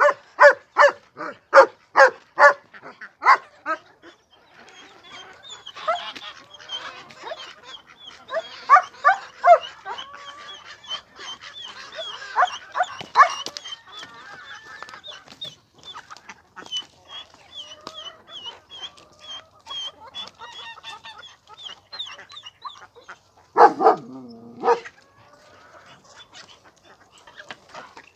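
A dog barking in a quick, steady series for the first few seconds. Then a flock of chickens and other poultry calling, with a long run of rapid high chirps and a few louder calls near the end.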